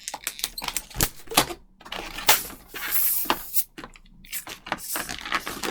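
260Q latex twisting balloon being twisted and wrapped by hand: a rapid, irregular run of short clicks and rubbing sounds from the latex.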